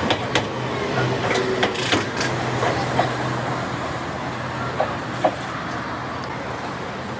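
Enoshima Electric Railway (Enoden) train running with a steady low hum and scattered wheel clicks, slowly fading as it moves away.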